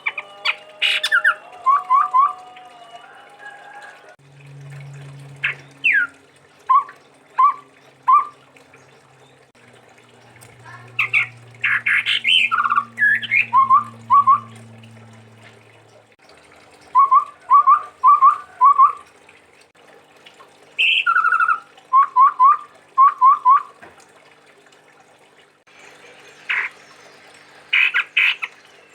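Chestnut-rumped babbler (tepus tunggir merah) singing: runs of three to five short, evenly spaced whistled notes repeated every few seconds, mixed with sharper, higher call notes. Faint low hum underneath for a stretch in the first half.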